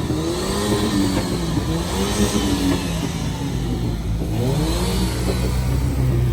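A car engine revving up and down several times, its pitch rising and falling in arcs, then settling to a steadier low drone near the end.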